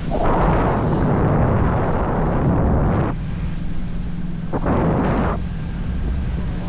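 Wind buffeting the camera microphone in gusts: a long rush over the first three seconds and a shorter one about four and a half seconds in, over a steady low hum.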